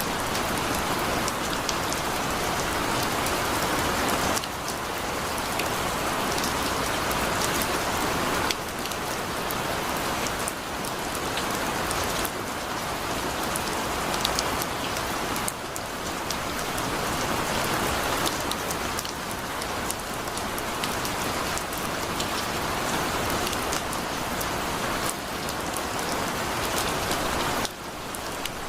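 Heavy rain falling in a dense, steady hiss, with scattered sharp drop ticks. Its level steps abruptly up and down every few seconds.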